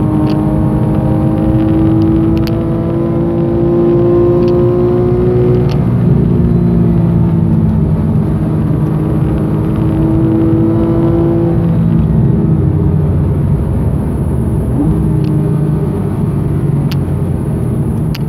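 Porsche 991.1 Carrera's flat-six engine heard from inside the cabin while driven on track: it pulls with the pitch rising slowly for about six seconds, drops briefly and pulls again, then eases off after about twelve seconds with a short rise in pitch near fifteen seconds. A steady rush of tyre and road noise runs underneath.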